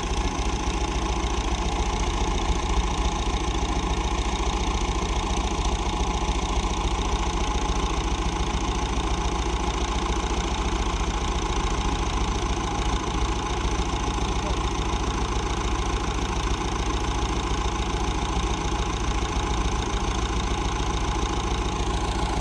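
An engine-driven machine running steadily at constant speed: an even, unbroken hum with several steady tones and no change in loudness.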